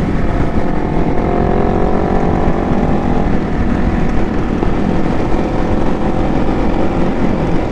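Motorcycle engines running during a ride, among them an approaching Triumph Street Triple's three-cylinder engine, over a dense low rumble. Its engine note climbs gently over the first three seconds or so.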